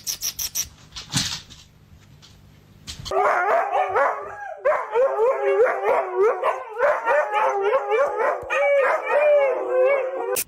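A dog howling and yipping: a long, unbroken run of short calls that rise and fall in pitch, starting about three seconds in after a few light taps.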